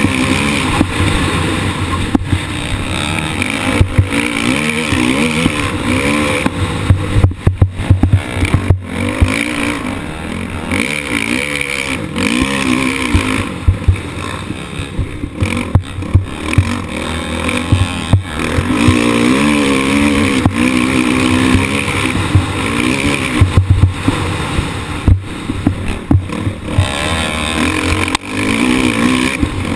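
Motocross bike engine racing onboard, revving up and falling back over and over as the rider works the throttle through the track, with wind rushing over the camera microphone. Sharp knocks and loud spikes break in repeatedly, most thickly about seven to nine seconds in and again around fifteen and twenty-five seconds.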